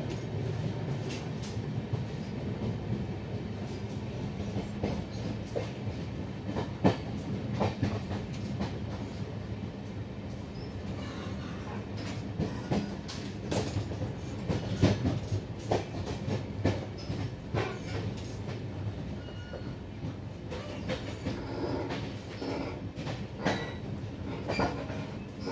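Moving Indian Railways sleeper coach heard from inside: a steady low rumble of the train running, with frequent irregular clicks and knocks of the wheels on the rail joints and the coach's fittings rattling.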